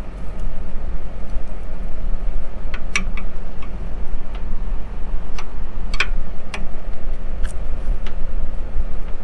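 Sharp knocks, a handful of them spaced irregularly about half a second to a second apart, as caked mud is knocked out of a plugged tillage disc harrow. They sit over a steady low rumble.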